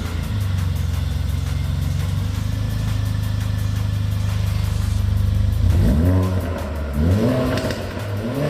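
Mercedes GLA45 AMG's turbocharged 2.0-litre four-cylinder through an iPE cat-back exhaust, held at a steady engine speed, then blipped three times about a second apart, each rev rising and dropping back.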